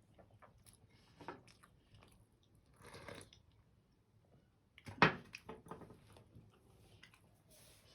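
Scattered small taps and clicks with a short rustle about three seconds in and one sharp knock about five seconds in, the loudest sound: small handling noises of things being set down and moved.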